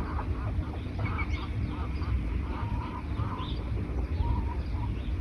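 Birds calling: many short repeated calls with scattered higher chirps, over a steady low rumble.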